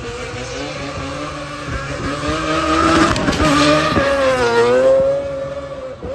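A drift car's engine held at high revs, its pitch wavering and dipping as the throttle is worked, with tyre squeal. It grows louder to a peak past the middle, then falls away near the end as the car moves off.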